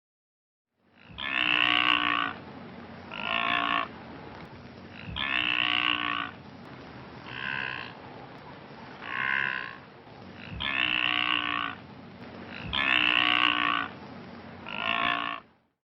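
Blue wildebeest calling: a series of about eight low, moo-like grunting calls, some longer and some shorter, over a steady background hiss.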